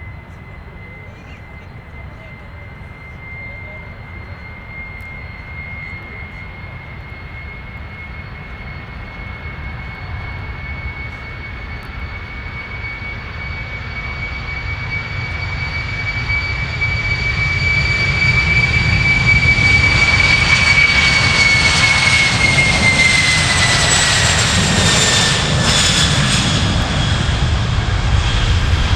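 Boeing 747-400F freighter's four jet engines at takeoff power, a high whine over a deep rumble growing steadily louder as the aircraft approaches. About two-thirds of the way through, the whine drops in pitch as it passes.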